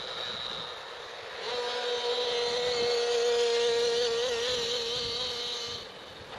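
RC nitro monster truck's .28 engine running at high revs: a held, nearly steady high-pitched engine note that comes in about a second and a half in, grows louder, then fades away near the end.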